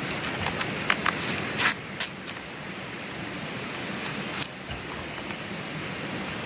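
A few sharp cracks and snaps, clustered in the first couple of seconds with one more past the middle, as the fibrous heart of a palm stem is pried and broken apart by hand. Under them a steady hiss.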